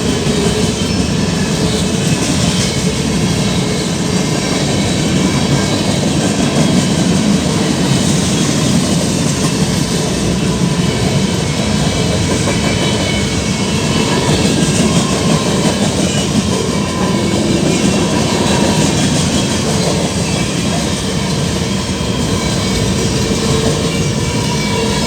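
Mixed freight train rolling steadily past, the loud continuous rumble of the cars' wheels on the rails with faint wheel squeal in it.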